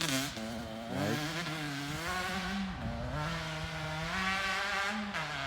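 Dirt bike engine revving as it rides away, its pitch climbing and dropping several times as the rider works the throttle and gears.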